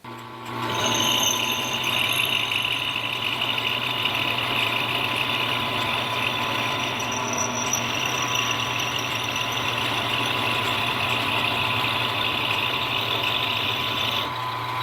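Milling machine running and taking a cut: a steady motor hum with a hissing, squealing cutting noise above it. The cutting noise stops shortly before the end while the motor keeps running.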